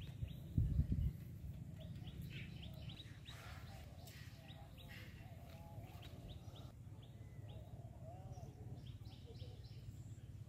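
Birds chirping in the background: many short high notes repeated throughout, with a few lower warbling calls. There is a low, dull thump about a second in.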